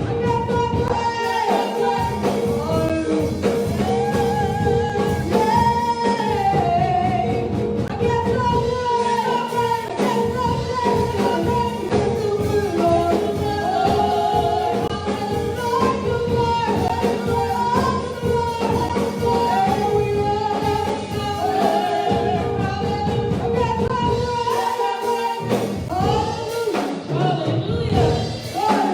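Gospel worship music: a voice singing a wavering melody over a sustained, held accompaniment chord.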